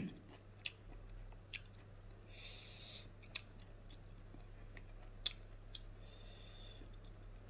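Close-up mouth sounds of a person eating meat and rice by hand: a few sharp wet clicks and smacks while chewing, with two brief hissing rustles, one about two and a half seconds in and one near the end.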